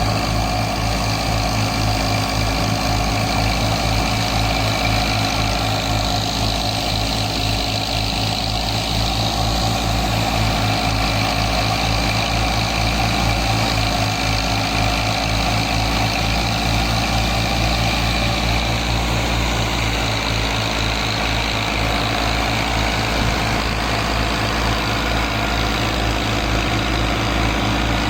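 Al-Ghazi tractor's diesel engine running at a steady speed, with a fast, even pulsing throb.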